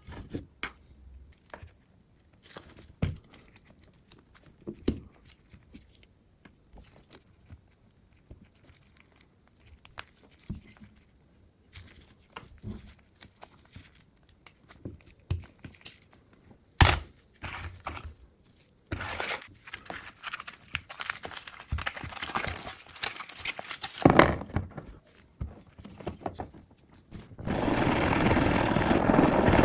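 Small workbench sounds from handwork on a die-cast toy car: scattered clicks, taps and short scraping and rustling. Near the end a loud, steady, even noise starts and keeps going.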